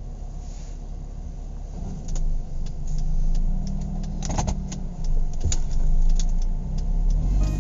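Car noise: a steady low rumble with scattered clicks and knocks from about two seconds in.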